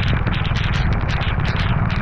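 A vehicle engine running steadily, its buzz fast and pulsing, under a constant rush of wind and rain noise on the camera microphone.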